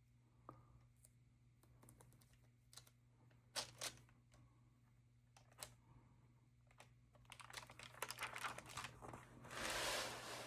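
Stamp album pages and plastic sleeves being handled: scattered small clicks and crinkles, busier in the last few seconds, with a louder rustle near the end.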